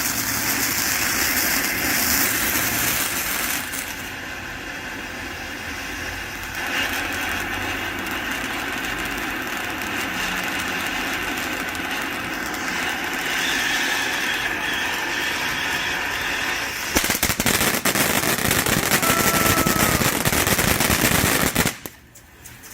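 Ground fountain firework spraying with a steady hiss. About 17 seconds in it turns to a dense, rapid crackle, which cuts off suddenly near the end.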